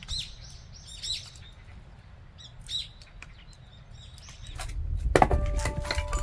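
A small bird chirping, a run of short arched calls over the first three seconds. About four and a half seconds in, background music with held notes comes in, along with a few sharp knocks.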